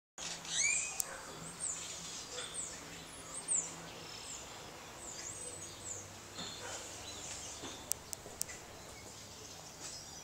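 Birds chirping and calling in the background, many short rising and falling chirps, over a faint low steady hum. Two sharp clicks come about eight seconds in.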